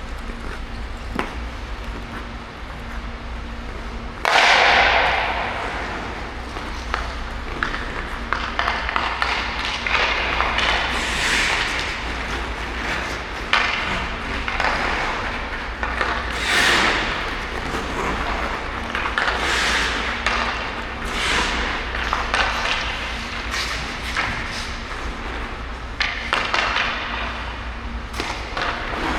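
Hockey skate blades carving and scraping on ice in repeated hissing swells, the loudest a sharp scrape about four seconds in, with a few short knocks over a steady low hum.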